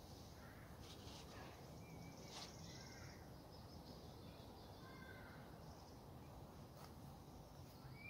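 Faint outdoor ambience: a few short, distant bird calls over a low steady rumble, with a couple of faint clicks.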